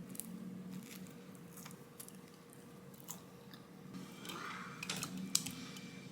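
Someone chewing and biting into crunchy food up close, with scattered small clicks and crackles that are busiest about four to five seconds in.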